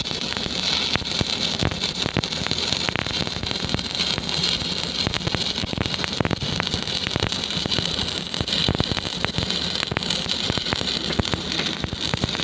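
Stick welding arc crackling steadily as the electrode burns, a dense, even run of small pops and sizzle.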